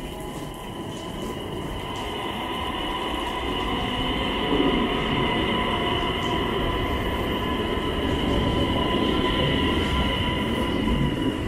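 Øresundståg X31 electric multiple unit running past along the platform, growing louder over the first few seconds and then holding steady. Wheels rumble on the rails under a steady electric whine.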